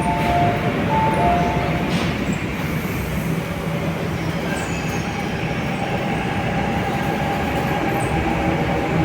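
MTR Kwun Tong line Q-train pulling away from the platform: a steady rumble of wheels and traction gear. A two-note beep sounds twice in the first couple of seconds, and a faint steady tone comes in about halfway through.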